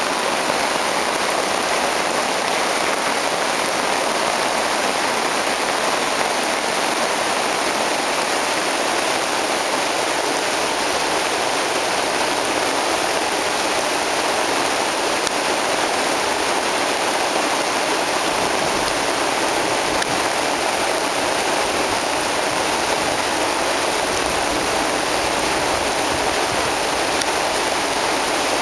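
Steady rain falling on the forest leaves and on a tarp overhead, an even unbroken hiss of water.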